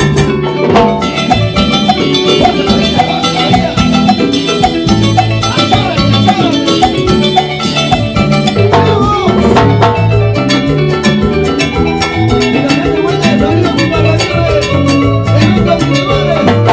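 Live Latin dance band playing an instrumental break between sung verses. Percussion keeps a steady, busy beat under bass and melodic instrument lines.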